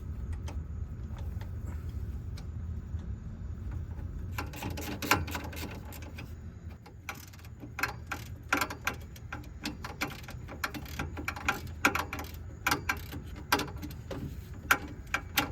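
Metal clinking and scraping from hand tools and a small exhaust clamp being worked into place. It starts about four seconds in as a run of irregular clicks and clanks over a low steady hum.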